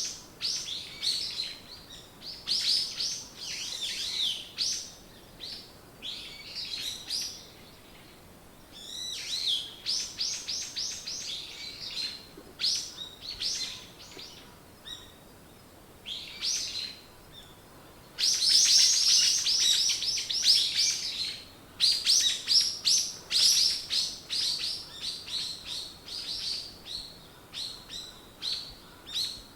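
Songbirds singing, with runs of quick high chirps and rapid trills broken by short pauses, loudest and densest about two-thirds of the way through.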